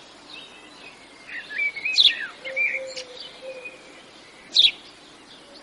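Birds chirping and singing: sharp, high chirps every second or two, with shorter sliding notes between them.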